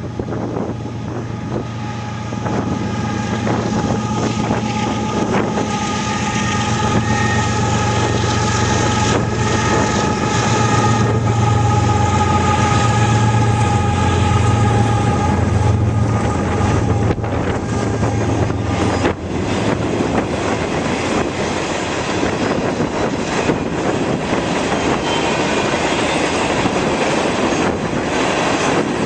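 Union Pacific freight train passing. The diesel locomotives' engines drone steadily for about the first two-thirds, with a low, even pitch and fainter higher whines. The drone then drops away to the steady rumble of freight cars rolling by, with wheels clicking over rail joints.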